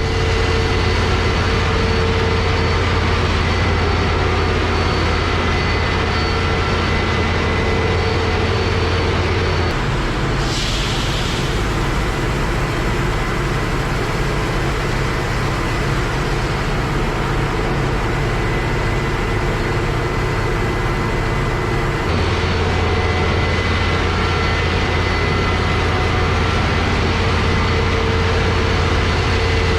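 Claas Lexion 760 combine harvester running steadily while harvesting wheat. Its low drone changes note about ten seconds in and returns to the first note some twelve seconds later, with a brief hiss just after the first change.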